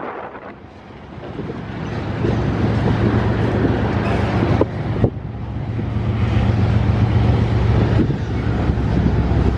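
BNSF covered grain hopper cars rolling past, a steady rumble of wheels on rail with two sharp clacks about halfway, over a steady low diesel locomotive drone. Wind buffets the microphone.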